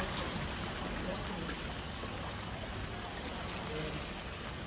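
Heavy rain falling steadily, an even hiss of water with no single event standing out.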